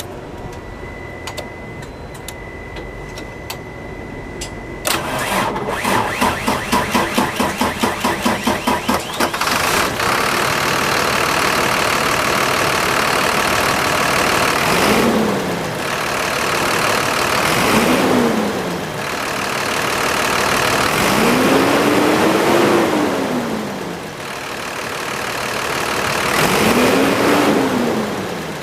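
2006 Sterling Acterra truck's diesel engine starting. After a few clicks and a steady high tone, the starter cranks it with an even pulsing for about four seconds until it catches and settles into a steady idle. The throttle is then blipped four times, each rev rising and falling in pitch, the third the longest.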